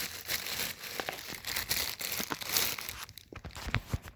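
Packaging material crinkling and rustling as it is handled around a ceiling fan motor, followed by a few sharp knocks and clicks near the end.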